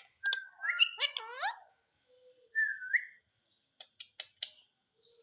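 Indian ringneck parrot calling and whistling: a run of chirpy, gliding calls, then a short whistle that rises at its end, followed by a few sharp clicks.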